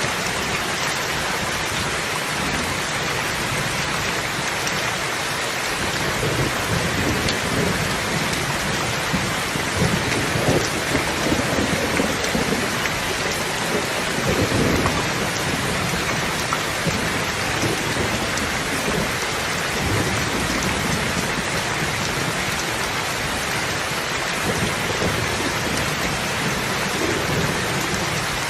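Steady, heavy rain falling, with low rolling thunder that swells and rumbles through the middle of the stretch.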